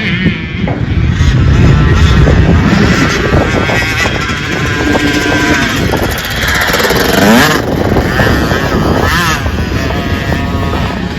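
Dirt bike engine revving, its pitch rising and falling, with a sharp rise in revs about seven seconds in.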